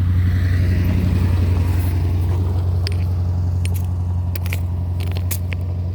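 A steady low engine-like hum, like a vehicle idling, with a few sharp clicks in the middle and later part.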